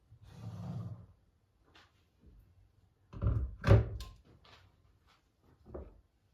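A few household knocks and thuds: a soft rustle early, then a cluster of sharp thumps about three to four seconds in, the loudest of them, and a lighter knock near the end.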